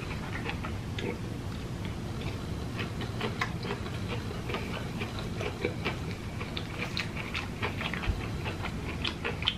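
Close-miked chewing of jackfruit flesh, with many small irregular wet clicks and lip smacks, over a low steady hum.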